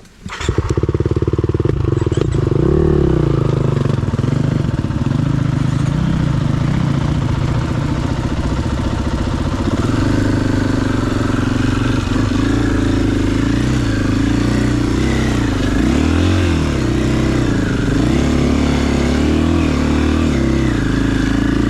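Single-cylinder four-stroke engine of a KTM 500 EXC-F dirt bike, ridden uphill under load. It starts suddenly just after the beginning, and its pitch rises and falls over and over as the throttle is worked.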